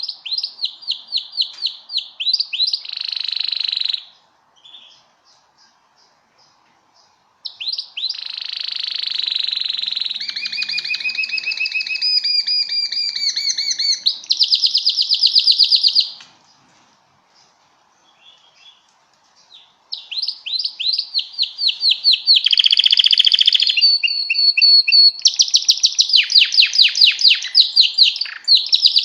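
Canary singing in loud bouts of fast repeated trills and rolling notes, with pauses of a few seconds between phrases.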